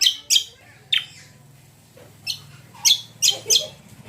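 Cucak kombo songbird calling: a string of short, sharp chirps, three near the start and four more in quick succession about two to three seconds in.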